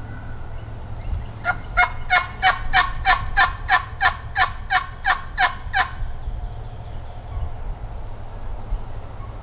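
Wild turkey yelping: a run of about fifteen evenly spaced yelps, roughly three a second, starting about a second and a half in and stopping about six seconds in, over a steady low rumble.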